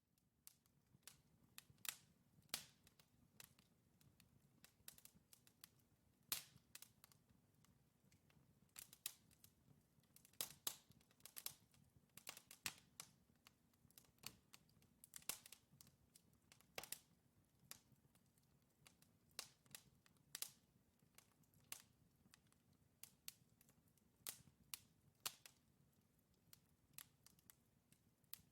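Wood logs burning in a fireplace, crackling faintly with irregular sharp pops and snaps, a few louder ones among many small ones, over a soft low hum of the flames.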